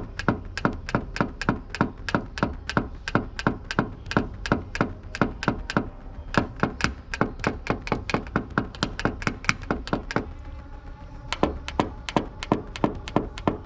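Quick, even taps of a paintless-dent-repair knockdown tool on a car body panel, about three to four a second, tapping down and blending the metal; the tapping pauses for about a second near the end, then resumes.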